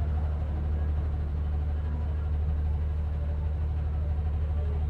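City bus engine running with a steady low drone, heard from inside the passenger cabin.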